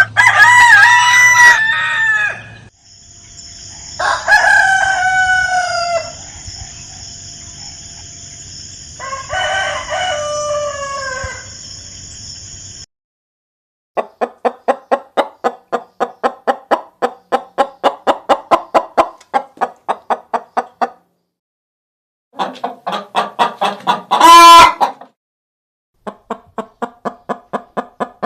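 Chickens: roosters crowing several times, each crow falling in pitch at the end, with a long run of quick repeated clucks in between and again near the end.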